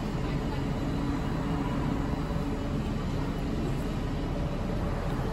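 Steady low rumble of a passenger train running slowly, heard from inside the carriage as it draws into a station.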